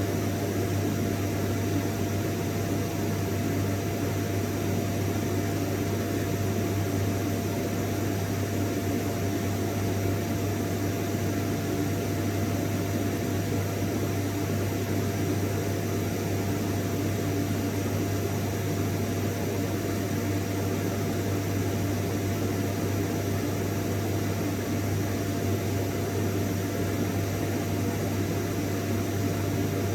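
Vacuum cleaner running steadily: an even rush of air over a strong low hum, with a faint constant whine.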